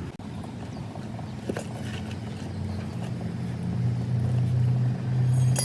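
A motor running with a steady low hum that grows louder about three seconds in, with a sharp click at the end.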